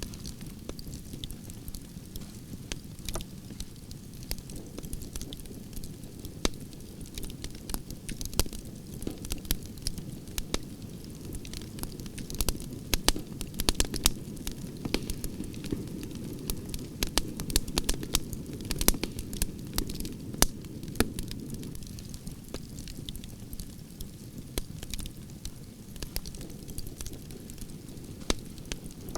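Campfire of burning branches crackling and popping, with irregular sharp snaps over a steady low rush of flame; the pops come thickest in the middle stretch.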